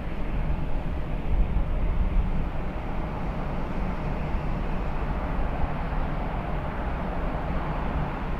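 Airbus A340-600's four Rolls-Royce Trent 500 jet engines at takeoff thrust: a steady, deep rumble.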